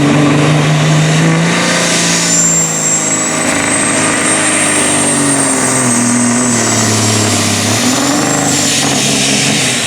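Pulling semi's Caterpillar diesel engine, in a 1984 Peterbilt, running hard under load down the track, its note slowly dropping as it bogs down. A high whistle comes in about two seconds in and fades near the end.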